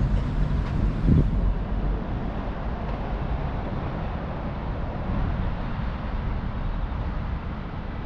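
City street ambience: a steady rumble of road traffic, with a brief low thump about a second in. The rumble slowly gets quieter.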